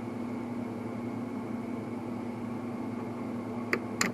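Steady background hum, with two short, sharp metallic clicks near the end from pliers working a wrist-pin circlip on a two-stroke piston.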